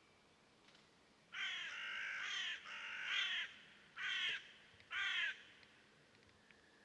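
A crow-like bird giving four harsh caws: two longer ones run together, then two short ones about a second apart.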